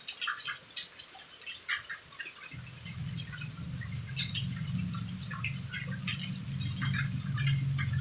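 Rain falling beside a house, heard as many scattered, irregular drips and taps. About two and a half seconds in, a low steady hum comes in underneath and continues.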